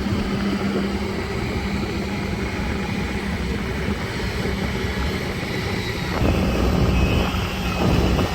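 Heavy diesel engine of mud-stuck earthmoving machinery running steadily under load, getting louder about six seconds in.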